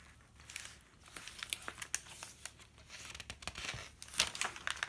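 Paper pages of a chunky handmade junk journal being handled and turned, with irregular rustling and crinkling.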